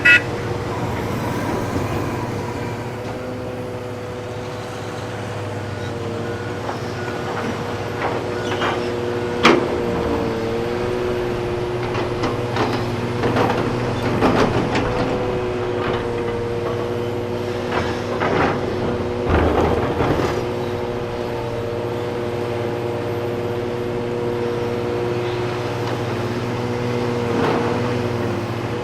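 Diesel engines of heavy earthmoving machinery, an excavator loading an articulated haul truck, running with a steady hum. Scattered clanks and clatter come through the middle, with a single sharp knock about nine seconds in.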